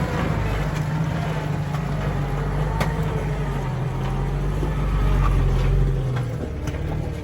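Jeep engine running at low, steady revs on an off-road trail, with a few light knocks on top.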